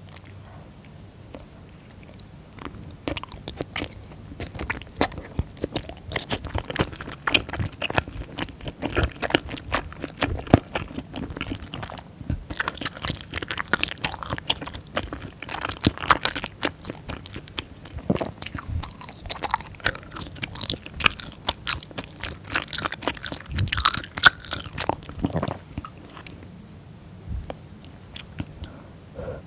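Close-miked chewing of chewy wheat-flour rice cakes in spicy tteokbokki sauce: a dense run of small mouth clicks. The chewing thins out near the end.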